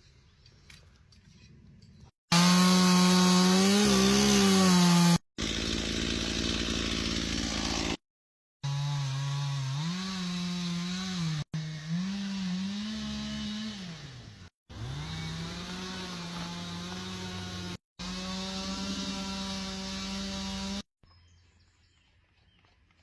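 Two-stroke chainsaw running at high revs, its pitch dipping and recovering as it bites into wood, heard in several clips of a few seconds each that start and stop abruptly. The first clip is the loudest.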